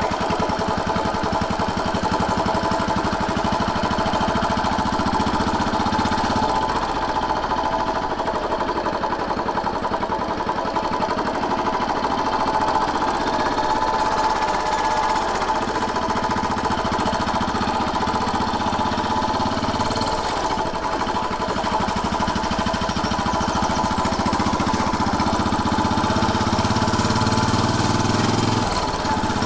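Royal Enfield Bullet 500's single-cylinder four-stroke engine running with a rapid, even thumping while the motorcycle is ridden. Its note shifts about six seconds in and again near the end.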